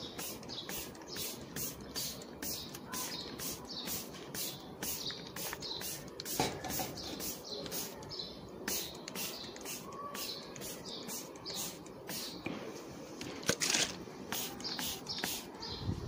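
Small birds chirping steadily, short high chirps about three a second, with a brief louder rustle of handling about three quarters of the way through.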